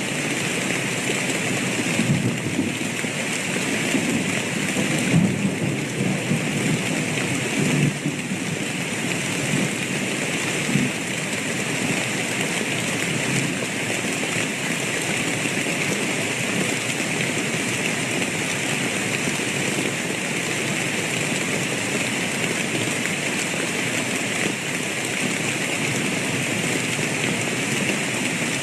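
Steady heavy rainfall, an even hiss, with a few brief louder low bumps in roughly the first ten seconds.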